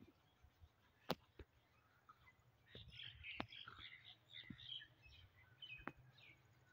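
Faint birds chirping in a scattered series, with a few sharp clicks.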